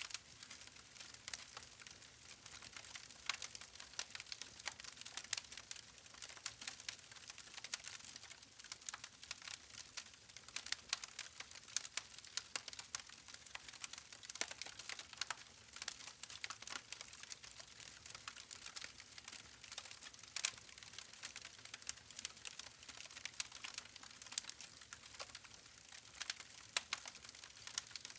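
Wood campfire crackling: burning logs give irregular sharp snaps and pops over a soft hiss.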